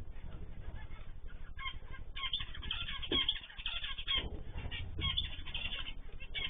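Small cage birds, finches and cockatiels, chirping and calling together, with many short overlapping calls that grow busier about two seconds in.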